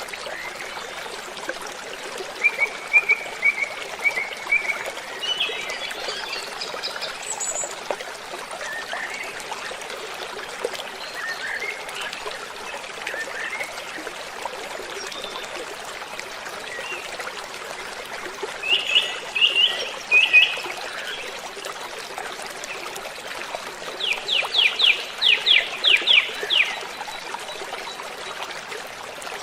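Steady rush of falling water with birds chirping over it in scattered short phrases. Near the end comes a rapid run of about ten quick chirp notes.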